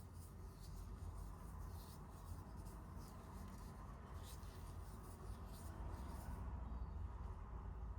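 Faint, soft scraping strokes, several short ones in the first half, over a low steady hum.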